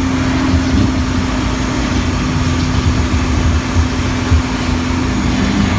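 Tour tram running: a steady low engine rumble with a constant hum over it.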